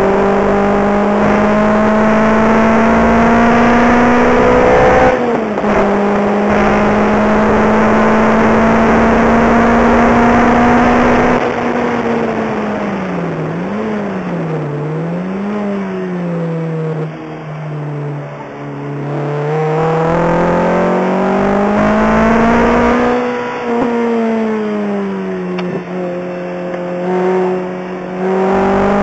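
A Lotus Exige's engine heard from inside the cabin on a track lap. Its pitch rises under hard acceleration, drops suddenly at an upshift about five seconds in, and climbs again. It then falls off as the car slows for a corner, with two brief blips of revs, and rises again as it accelerates out, pitch swelling and dipping through the bends.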